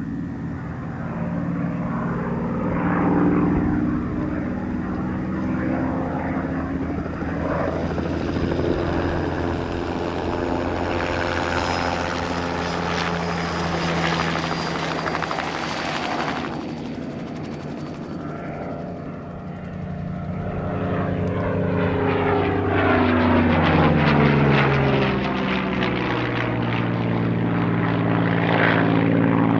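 Supermarine Spitfire Mk VIII's Rolls-Royce Merlin V12 engine running at display power as the fighter flies past. Its pitch sweeps down about two-thirds of the way through as it passes, and it grows loud again near the end.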